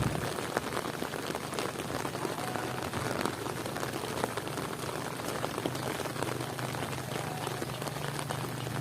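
Heavy rain falling steadily, a dense patter of many small drop impacts. A single low thump right at the start and a faint steady low hum underneath.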